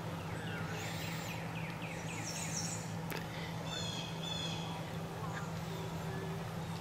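Birds calling over a steady low hum: a run of quick falling chirps in the first couple of seconds, then higher calls and trills around three to four seconds in.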